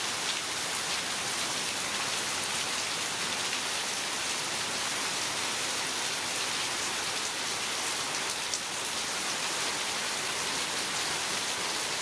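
Heavy rain falling steadily, a dense even hiss with scattered drops pattering on surfaces.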